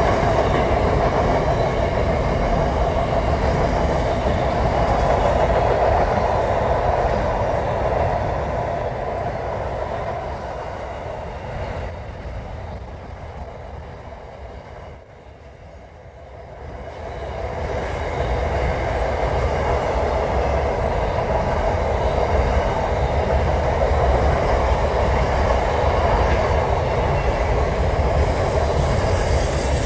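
Freight train rolling past at close range, a steady rumble and rattle of wagons on the rails. It drops away for a couple of seconds about halfway through, then comes back up to full level.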